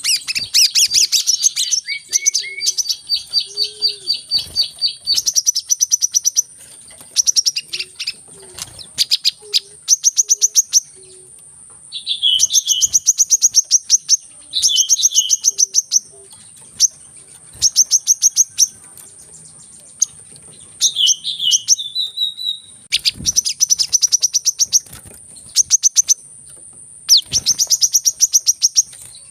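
Sunbird song: bursts of very rapid, high chattering trills, repeated every second or two with short pauses. A steady high whine runs underneath.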